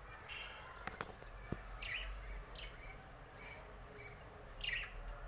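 Faint chirps of budgie chicks: about five short calls that fall in pitch, scattered a second or so apart, with a couple of small clicks in between.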